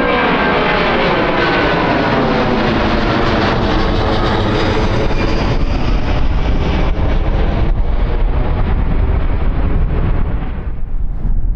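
Jet airliner passing close, its engine tones gliding down in pitch as it goes by, over a heavy low rumble. About ten seconds in the engine sound fades, leaving the low rumble of strong wind on the microphone.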